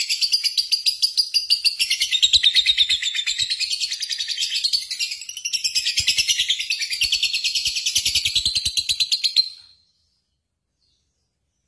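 High-pitched, rapid bird chirping in fast repeated pulses that cuts off abruptly near the end into silence.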